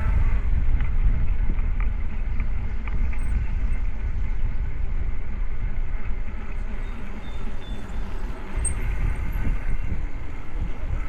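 Wind buffeting the microphone during a bike ride: a loud, gusting low rumble with no speech.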